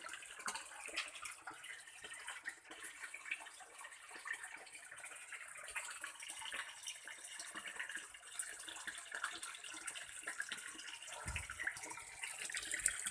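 Water trickling and splashing steadily into a fish pond, a continuous patter of small droplets.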